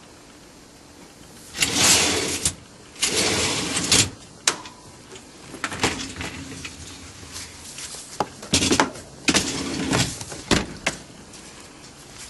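Dishwasher doors and racks being handled: several scraping, sliding rushes, each about half a second to a second long, with sharp clicks and knocks between them.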